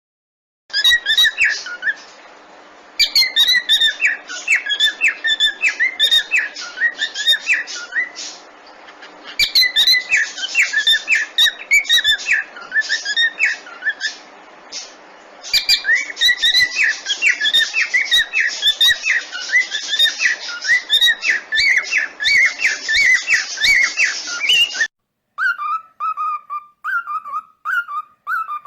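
Cockatiels chirping in a fast, busy chatter, several short calls a second, over a steady hiss, with brief pauses. About 25 s in, the hiss cuts off, and a single bird goes on with short falling chirps, a little more than one a second.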